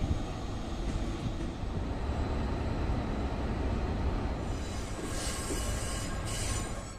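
Passenger train rolling past with a steady low rumble; in the second half a high hissing sound comes in twice, then stops.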